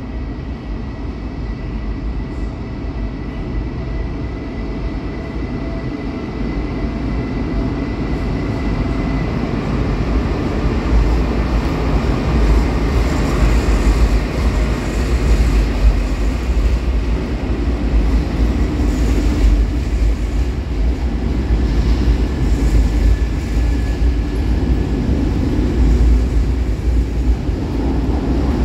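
Electric intercity train of double-deck passenger coaches rolling slowly past at close range: a steady rumble of wheels on rail that grows louder as the coaches draw level. A thin, steady high whine sounds over the rumble for the first several seconds.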